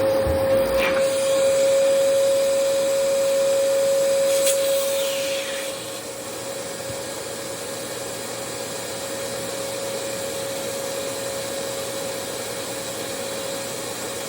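Vacuum cleaner running, a steady motor whine over a rushing airflow; it drops in level about six seconds in and runs on more quietly.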